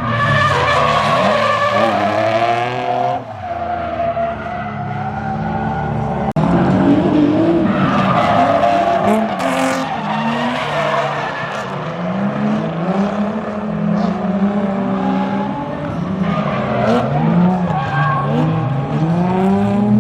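Drift car engine revving up and falling back again and again, with tyres squealing and skidding as it slides.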